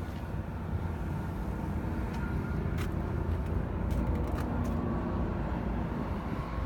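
A Vortec 6.0L V8 running steadily at idle, with a few light clicks.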